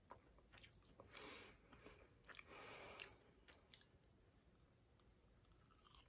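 Faint biting and chewing of a chocolate-cherry gaeseong juak, a fried glutinous rice cake, with soft mouth clicks and two short soft hisses about one and two and a half seconds in.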